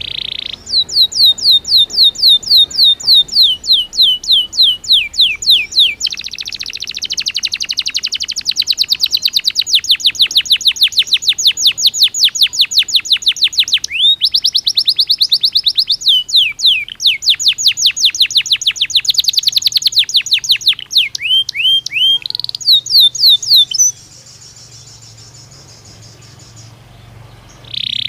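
Belgian canary singing: a long song of rapid, high trills made of fast repeated down-slurred notes, changing trill speed several times, stopping about four seconds before the end, with a short call near the very end.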